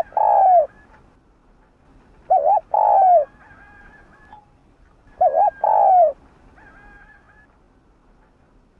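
Spotted dove cooing in three phrases about two and a half seconds apart, each a quick double note followed by a longer falling coo.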